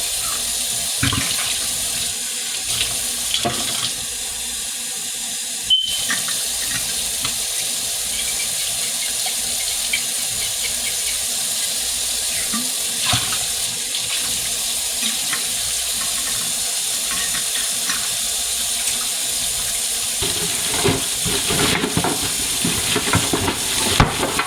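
Kitchen faucet running steadily into a sink, with the knocks and clatter of items being handled in it, thickest near the end.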